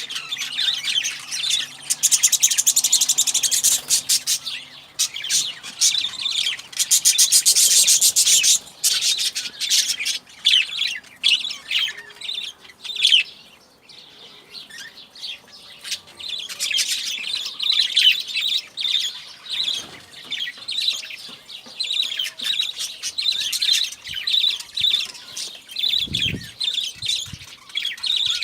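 Birds chirping continuously, with quick, high chirps and two louder bursts of very fast chatter in the first third.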